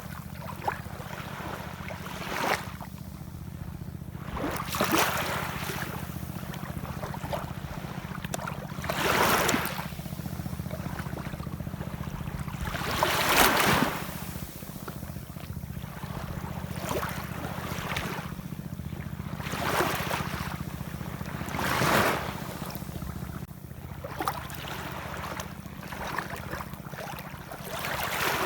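Ocean waves washing in, each surge of hiss swelling and fading every few seconds over a steady low rumble, with the largest breakers about a third, halfway and three quarters of the way through.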